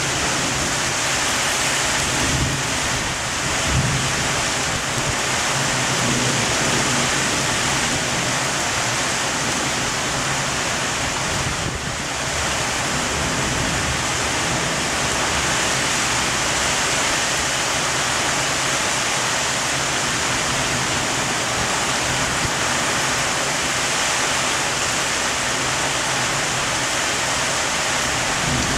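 Heavy rain falling steadily in a thunderstorm downpour.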